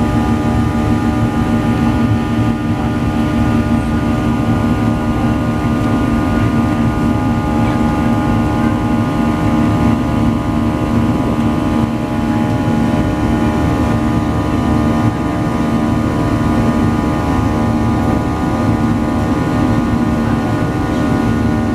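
Boeing 737 jet cabin noise in flight: a steady, loud rush of engine and air noise with several steady droning tones running under it.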